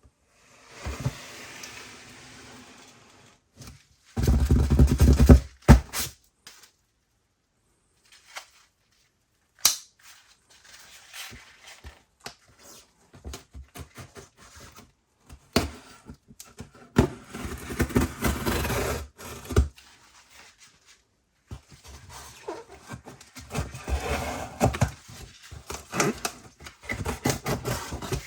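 Close handling of a sneaker box and its packaging: rustling, scraping and many sharp taps and clicks, with a loud scraping rustle about four seconds in.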